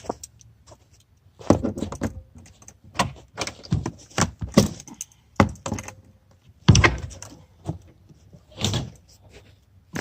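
A shed door frozen shut being yanked and pried at with pliers: a string of irregular bangs and scrapes, about eight loud ones spread over several seconds.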